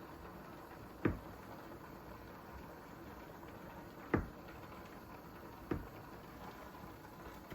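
Kitchen items being handled: three short, sharp knocks or clacks, about a second in, about four seconds in and a weaker one near six seconds, over a faint steady hiss.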